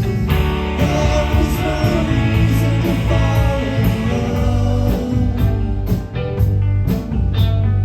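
Live rock band playing a song: guitar over bass and drums, with a cymbal keeping a steady beat of about two strikes a second.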